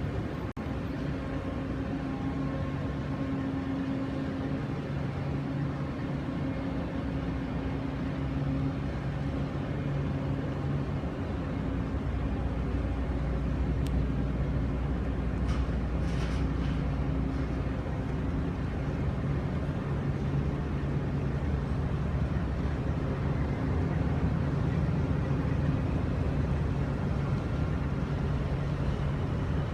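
Steady low drone of a car ferry's engines, a constant hum with a couple of low steady tones over a rumble of machinery and water.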